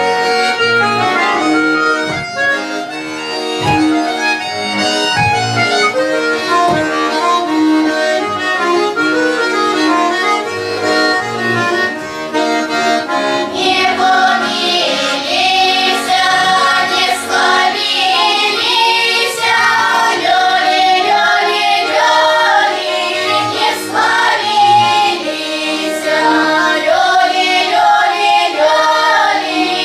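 Accordion playing a tune, with singing voices joining in about halfway through.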